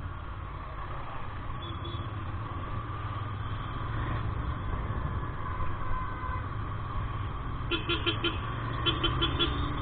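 Royal Enfield Interceptor 650 parallel-twin running on the road, a steady low engine and road rumble. Near the end a horn sounds in a string of short, rapid beeps.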